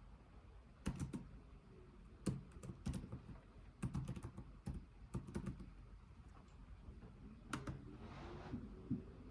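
Computer keyboard typed slowly and deliberately: sharp keystrokes in small irregular clusters with pauses between them. A brief soft hiss comes near the end.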